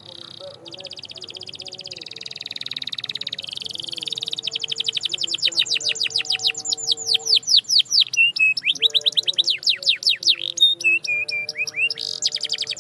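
Canary singing a long, rapid trill of repeated downward-sweeping notes that builds in loudness, broken by a few short steady whistles near the end before the fast trill resumes.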